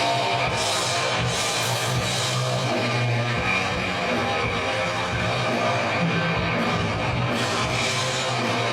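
Live heavy rock band playing loud distorted electric guitar over drum kit, with crashing cymbals.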